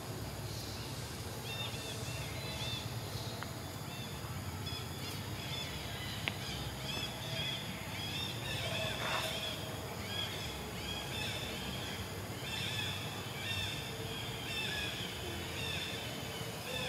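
Birds chirping in clusters of short repeated calls, with one quick falling call about nine seconds in, over a steady low background noise.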